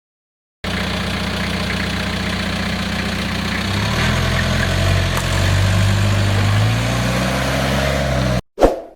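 Nissan Datsun pickup engine running steadily, its note rising a little about halfway through, then cutting off suddenly near the end.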